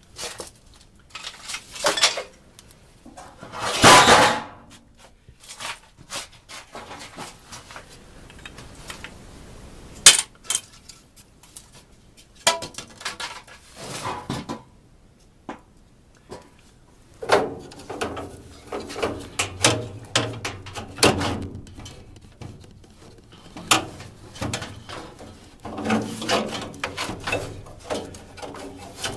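A washable furnace filter being bent and worked into the furnace by hand: irregular clinks, knocks, scrapes and rustles against the furnace housing, with a sharp click about ten seconds in and busier scraping in the second half.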